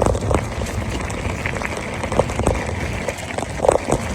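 Riding noise from a mountain bike under way: steady wind rumble on the microphone and tyre noise from the trail, with scattered small clicks and rattles.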